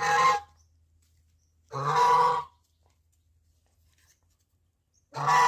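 Domestic goose honking: three loud calls, each well under a second long, a couple of seconds apart.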